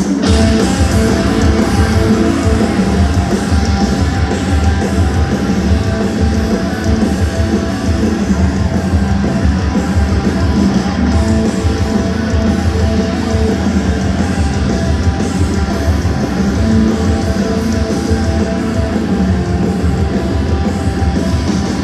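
Live rock band playing at full volume, with distorted electric guitars and drums over a heavy low end.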